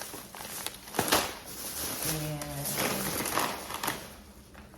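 Plastic snack bags crinkling and rustling as they are handled, with a sharp crackle about a second in.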